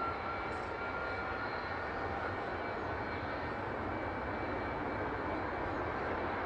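Jet airliner engine running steadily: an even rushing noise with a faint high whine.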